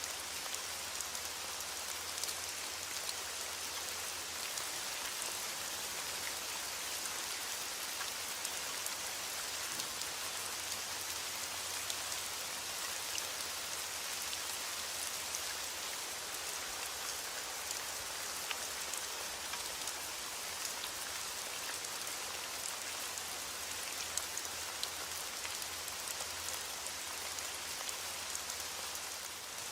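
Steady rainfall: an even hiss of rain with many individual drops clicking on a surface, holding constant throughout with no thunder.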